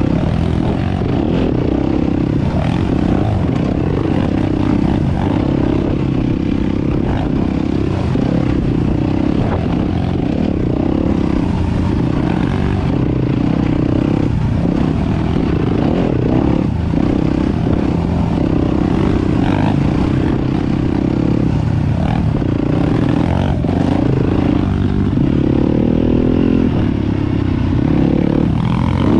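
Four-stroke dirt bike engine running steadily on a trail ride, its pitch rising and falling with the throttle, with clattering and scraping from the bike over bumps.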